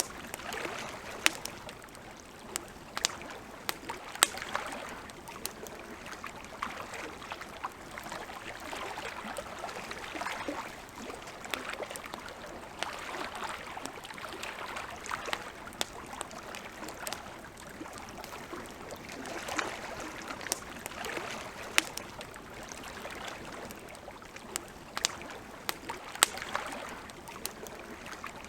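Campfire crackling, with sharp irregular pops of burning wood, over lake water lapping gently in soft swells every couple of seconds.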